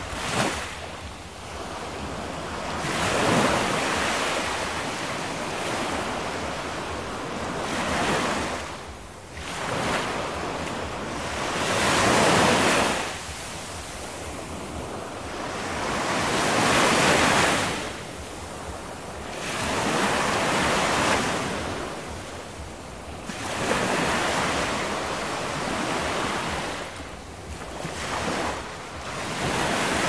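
Ocean surf: a wide hiss of waves that swells and falls away about every four to five seconds.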